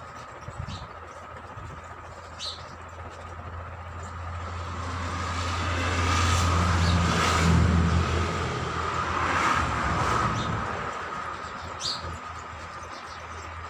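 A road vehicle driving past, its engine and tyre noise growing louder to a peak about halfway through and then fading away. A bird chirps briefly twice.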